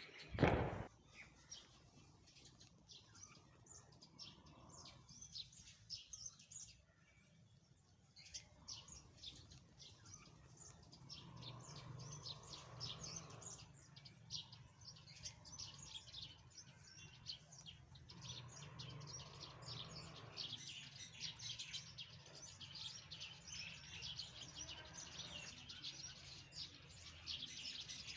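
Small birds chirping rapidly and continuously, many short high chirps overlapping. A single sharp knock about half a second in is the loudest sound.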